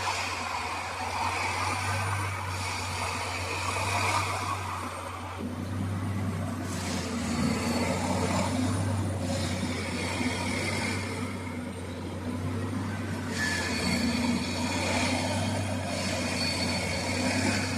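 Plasser Unimat track tamping machine at work: its diesel engine runs with a steady low hum, under mechanical noise that swells in bursts every couple of seconds.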